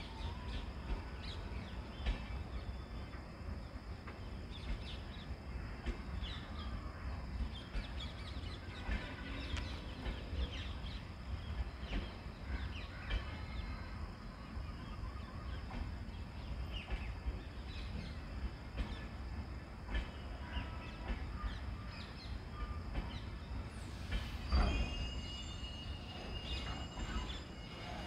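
Parcel train of LHB and ICF parcel vans rolling slowly past: a steady low rumble with scattered wheel and coupler clicks and squeaks. A louder clank and a high squeal come near the end.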